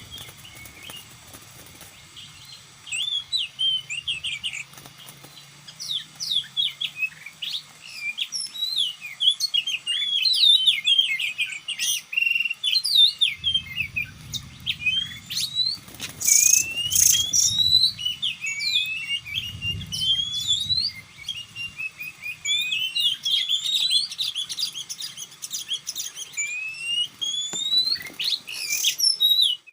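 Oriental magpie-robin singing a long, varied run of quick chirps and rising whistles with hardly a pause. A few low muffled rustles and sharp brief scrapes come partway through.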